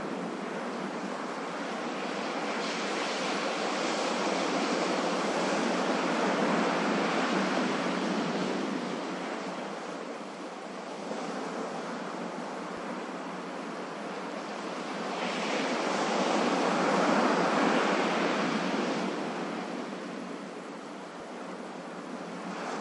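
Ocean surf: a steady rushing wash of waves that swells twice, building to a peak a few seconds in and again past the middle, then ebbing each time.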